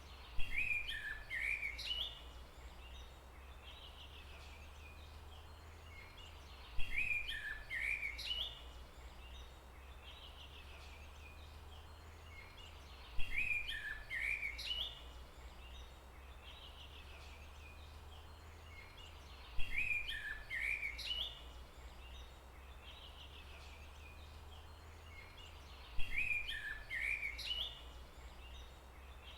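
A bird's chirping call phrase, the same two-second burst of high chirps repeated five times about every six seconds, over a steady low rumble.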